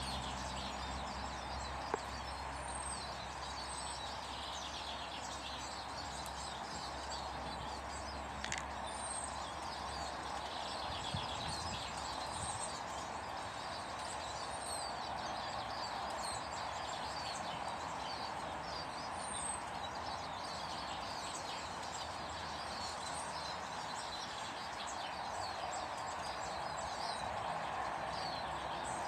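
Many small birds chirping and calling, short high chirps overlapping one another, over a steady background noise.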